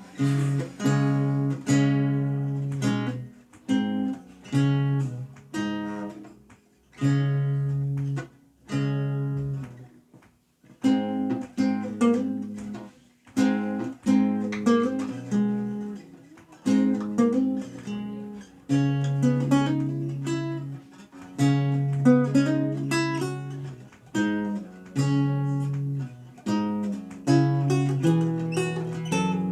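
Renaissance lute being played: plucked chords and quicker runs of single notes that ring and fade, with brief pauses between phrases.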